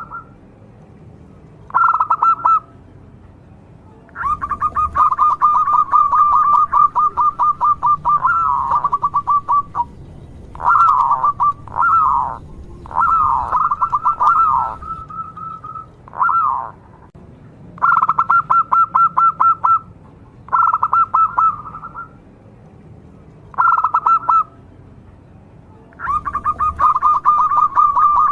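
Local zebra dove (perkutut) cooing: repeated phrases of fast staccato coos, some under a second and some running several seconds, with short pauses between them.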